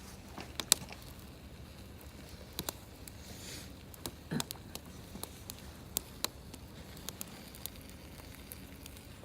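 Wood campfire burning and crackling, with irregular sharp pops and snaps over a low steady rush.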